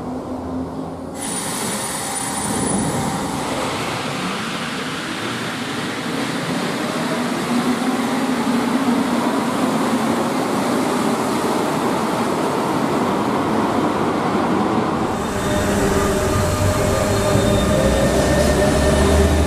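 Metro train running past an underground station platform: a loud, steady rumble and rush with a brief high squeal just after it starts. About fifteen seconds in it switches to a Paris RER A MI2N double-deck electric train passing on open track, with a deep low rumble.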